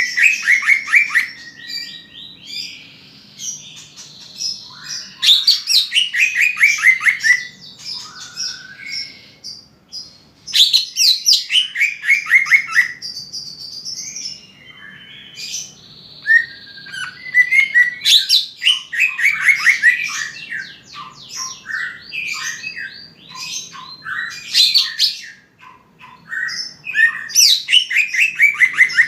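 Cucak ijo (green leafbird) singing a loud, varied song: quick runs of falling whistled notes, repeated in phrases every few seconds with softer chattering between. This is a lure song for making captive leafbirds sing.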